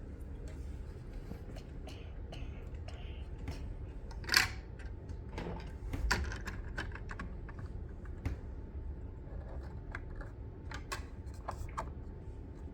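Scattered light clicks and clatter of small plastic Lego pieces being handled, with one sharper knock about four seconds in.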